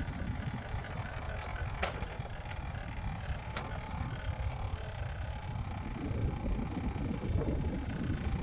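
Engine of earth-moving equipment running with a steady low rumble, with a few sharp knocks, the loudest about two seconds in and another at about three and a half seconds.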